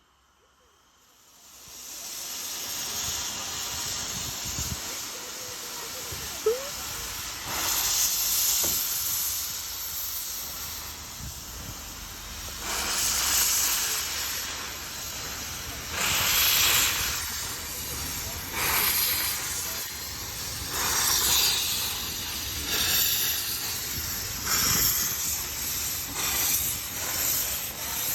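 Narrow-gauge steam locomotive hissing steam, with bursts of exhaust that come closer and closer together as it gets under way.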